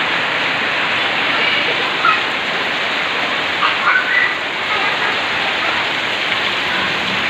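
Heavy rain pouring down steadily and splashing into floodwater.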